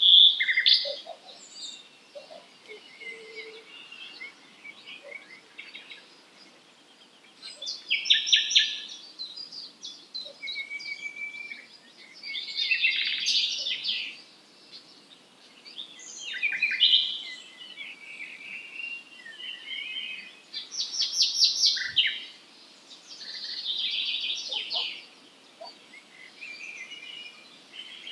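Wild songbirds singing in a dawn chorus: short phrases of rapid trills and twitters come every few seconds, with fainter chirps between them.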